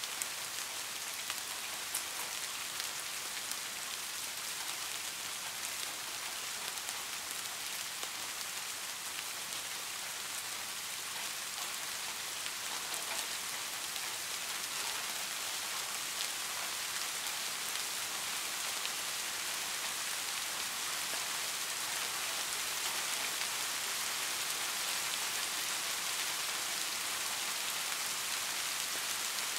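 Heavy rain falling steadily: an even hiss of rain with scattered drop ticks, growing slightly louder in the second half.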